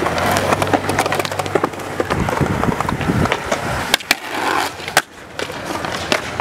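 Skateboard rolling over the ground, with sharp clacks of the board's tail and wheels striking down during tricks, the loudest about four and five seconds in.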